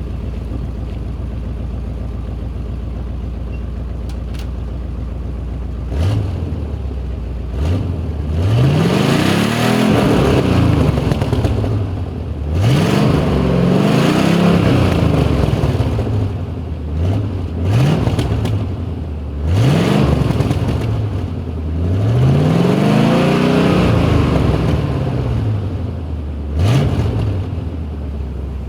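Chevy K20's 400 small-block V8 on stock exhaust idling steadily, then revved repeatedly from about six seconds in. There are short quick blips and a few longer revs held for a couple of seconds, each rising and falling back to idle.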